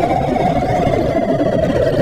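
Electronic music: a sustained synthesizer drone slowly sliding down in pitch over a dense, grainy rumbling texture.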